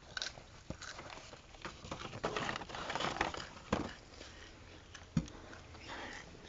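Crunching and chewing Pringles potato chips, an irregular crackle of bites, with a single sharp knock about five seconds in.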